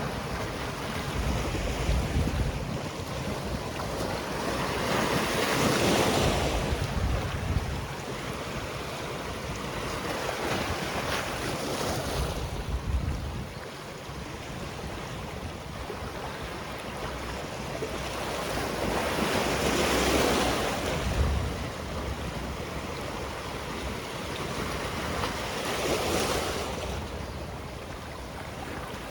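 Sea waves breaking and washing on a rocky shore, surging in swells every six or seven seconds, with low wind rumble on the microphone.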